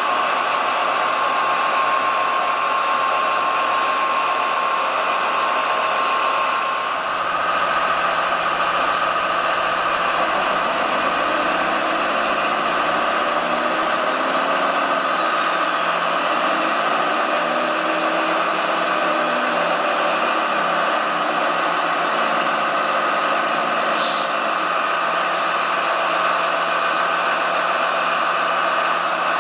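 Steady whine of the small electric motors and gearboxes of RC construction models running, its pitch shifting about seven seconds in and then rising and falling in the middle as the machines work. Two short clicks near the end.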